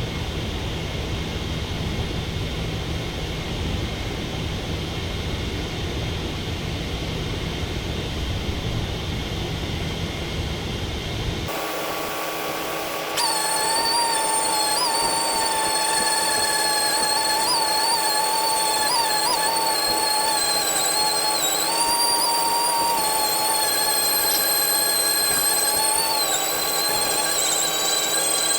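A steady rushing, rumbling noise that gives way abruptly, about eleven seconds in, to a power sander's high whine. The whine's pitch wavers as the sander is worked over the primed surface.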